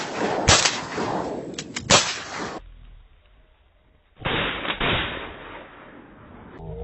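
Shotgun shots: two loud shots about a second and a half apart with smaller cracks between them, a short lull, then two more shots in quick succession, each trailing off in a rolling echo.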